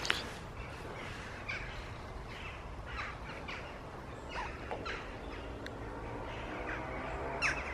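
Wild birds calling: a scatter of short chirps and calls. Underneath is a faint steady low rumble, with a faint drone in the second half.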